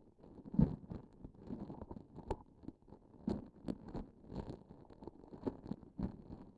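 A transparent sticky object handled right at the microphone: an irregular run of soft sticky crackles and squishes as it is pressed and pulled, the loudest about half a second in.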